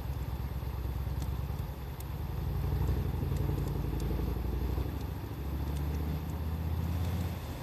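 Wood fire crackling with scattered sharp pops, over a low engine rumble from a running vehicle that grows louder a few seconds in and shifts pitch slightly later on.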